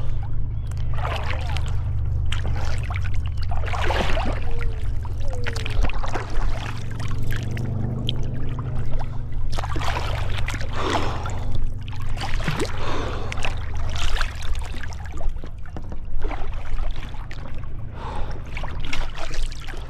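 Moving river water rushing and splashing around a whitewater kayak held in a stern stall, with irregular splashes every second or two over a steady low rumble.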